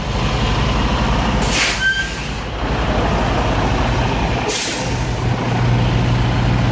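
Semi truck's diesel engine idling steadily, with two short hisses of air from the air brakes, about one and a half seconds in and again about four and a half seconds in.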